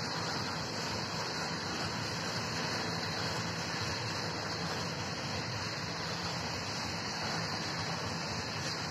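Freight train of open-top gondola wagons rolling past at steady speed, the wheels on the rails giving a continuous, even rushing noise.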